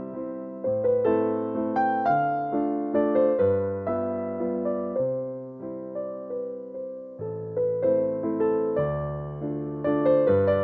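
Background piano music: a gentle waltz in a minor key, notes struck in a steady lilting rhythm with bass notes under a simple melody.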